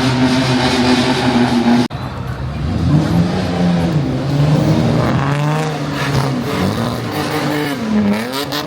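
Arcade game machines playing engine sound effects. First a steady drone, then, after an abrupt cut about two seconds in, engine notes that rise and fall again and again like revving.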